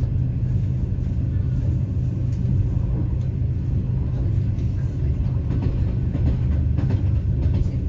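Passenger train running along the track, heard from inside the carriage: a steady low rumble with a few faint clicks.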